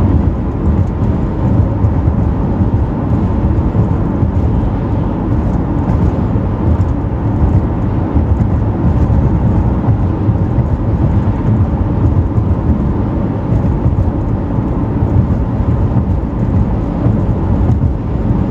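Steady low road and engine rumble of a moving vehicle, with no separate events.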